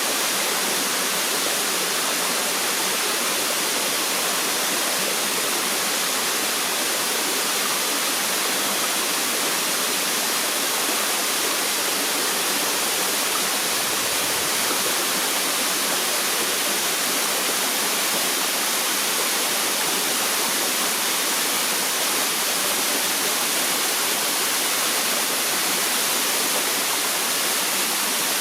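Small waterfall splashing onto rocks, a steady, unbroken hiss of falling water.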